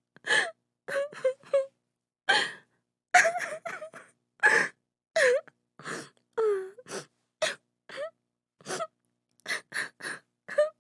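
A woman sobbing: short gasping breaths in quick succession, broken by brief wavering whimpers and moans.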